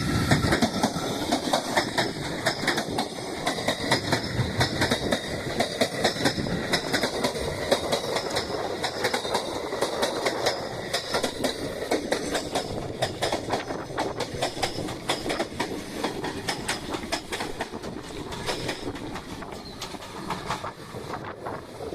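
Train Suite Shiki-shima luxury sleeper train passing at close range, its wheels clickety-clacking in quick, irregular clicks over the rail joints above a steady rolling rumble. The sound grows gradually quieter over the last third or so as the train draws away.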